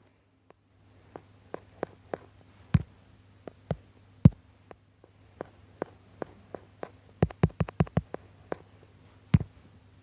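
Irregular sharp clicks and taps of digital drawing input, roughly one or two a second, with a quick run of about six a little past the middle, over a faint steady low hum.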